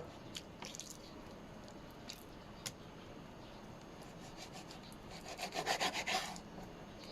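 A few light taps, then about five seconds in a quick run of rubbing or scraping strokes lasting about a second, as in kitchen food preparation.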